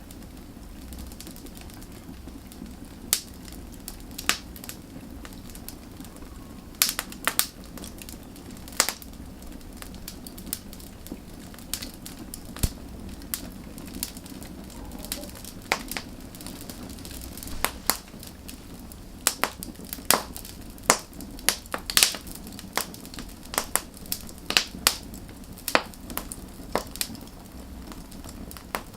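Wood fire burning, with a steady low rush under irregular sharp crackles and pops from the burning logs, which come thicker in the second half.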